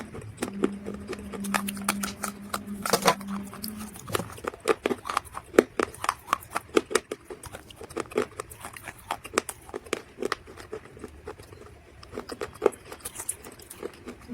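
Dried mud crunching and crumbling: a rapid, irregular string of short crisp cracks and snaps. A steady low hum underlies the first four seconds.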